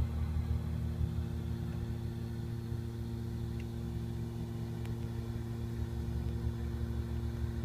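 A steady low mechanical hum and rumble, like an engine running at a constant idle.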